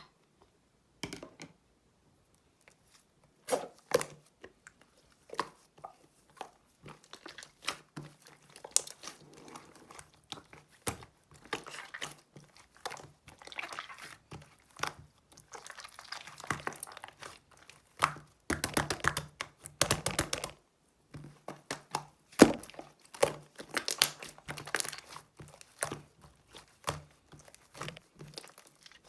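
Slime being pressed, stretched and folded by hand, giving a run of sticky crackles, pops and crinkling sounds, densest in a long crackling stretch in the middle.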